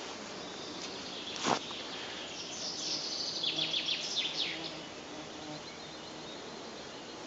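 A songbird singing a quick run of high notes that fall in pitch, lasting about two seconds, over steady outdoor background hiss. A single sharp click, the loudest sound, comes about a second and a half in.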